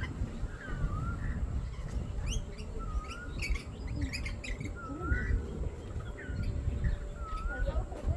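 Parrots giving short, repeated curving chirps about once a second. Sharp clicks cluster a few seconds in, over a steady low rumble.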